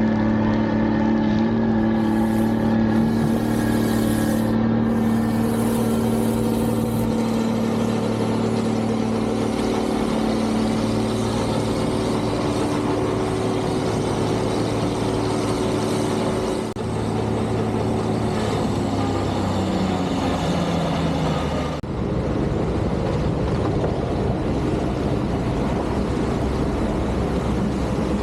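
Engines of snow-removal machinery running steadily. Their pitch drops around two-thirds of the way through, followed by a rougher, more even rumble.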